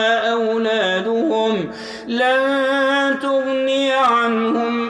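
Male voice reciting the Quran in melodic tajweed style, holding long, drawn-out notes on stretched vowels. There is a short break with an intake of breath just before two seconds in.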